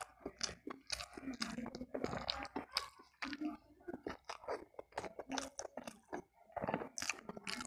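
Close-up chewing of a hand-fed mouthful of rice and side dishes, with wet mouth sounds and irregular crunching.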